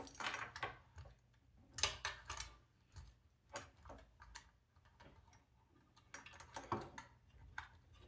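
Light, irregular clicks and knocks of small robot-kit parts being handled, as the motors are fitted into the plastic body assembly.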